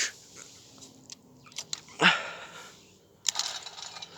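O gauge clockwork locomotive running on its spring motor, whirring and clattering along the track for about a second near the end, after a few light clicks and one short sharp sound about two seconds in.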